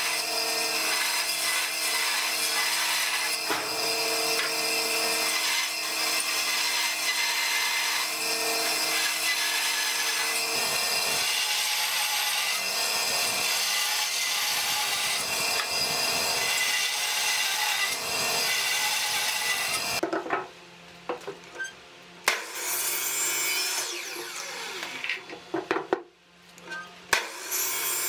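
Electric power tool working wood, running steadily for about twenty seconds, then stopping abruptly; a few short bursts of tool noise follow near the end.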